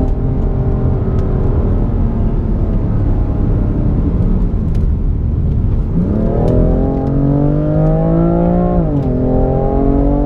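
BMW M4's twin-turbocharged straight-six engine driven hard. The note eases lower at first, then the car accelerates with the pitch climbing steadily, drops once at an upshift near the end, and climbs again. A steady low road and wind rumble runs underneath.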